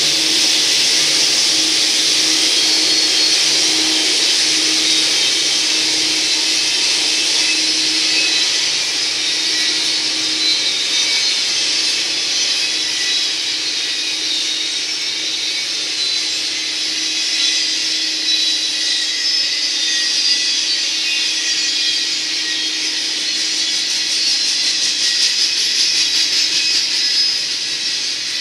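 Double-stack intermodal freight train rolling by: a steady hiss and rumble of steel wheels on the rails, with a faint steady hum underneath.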